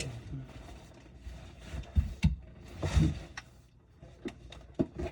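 Irregular knocks and clunks of tools and parts being handled under a kitchen sink: about half a dozen separate knocks, with a longer rustling clatter about three seconds in.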